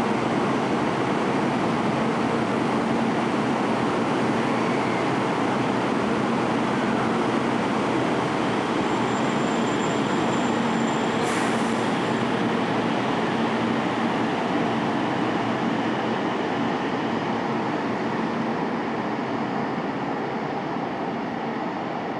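Kyushu Shinkansen 800 series train pulling slowly out of the station: a steady running noise of motors and wheels with a faint low hum, with a brief click about halfway, fading over the last several seconds.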